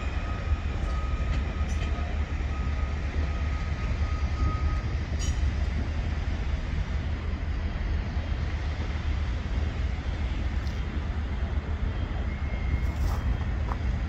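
Electric passenger train running past on a far track, a steady low rumble with a faint steady whine over the first few seconds.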